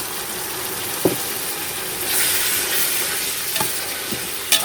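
Onions and freshly added chopped tomatoes sizzling in a frying pan as they are stirred, with a few sharp knocks of the stirring utensil against the pan. The sizzle grows louder about two seconds in.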